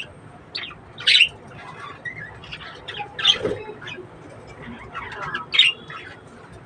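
Pet budgerigars calling: a string of short squawks and chirps, loudest three times, about a second in, midway and near the end.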